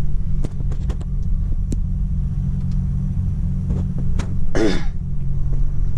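A vehicle engine idling with a steady low rumble, with a few light clicks and a short cough or throat-clear about four and a half seconds in.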